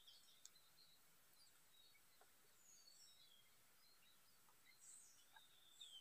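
Faint, scattered high-pitched bird chirps from the forest canopy over near silence, with small clusters of calls near the start and again near the end.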